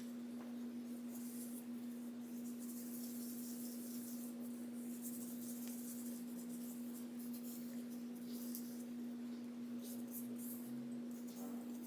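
Soft, scratchy rubbing and rustling of skincare product being wiped and rubbed over the face, over a steady low hum.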